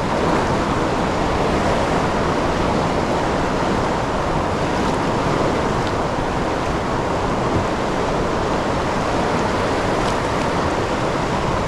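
Steady, even rush of fast-flowing tailwater current below a hydroelectric dam.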